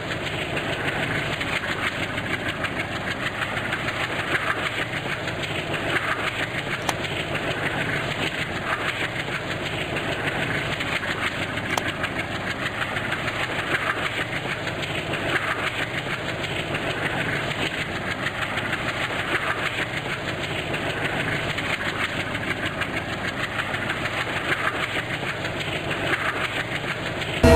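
Steady train noise with a faint regular beat, as of a train running on the rails.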